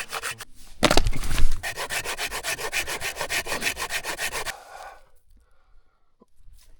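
Fast, rhythmic rasping or scraping strokes with a louder burst about a second in, stopping abruptly about four and a half seconds in.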